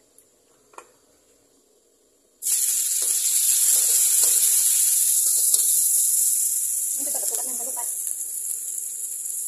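Chopped garlic and chilies hitting hot oil in a wok: a sudden loud sizzle starts about two and a half seconds in and runs on steadily. A metal spatula scrapes and knocks against the wok now and then as the garlic is stirred.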